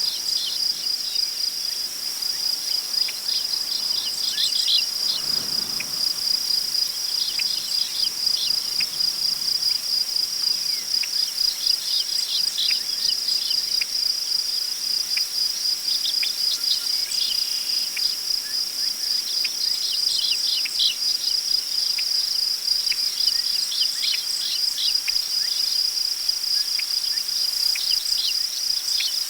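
Crickets trilling in a steady, continuous high-pitched chorus, with scattered short bird chirps over it and a soft gust of wind through grass about five seconds in.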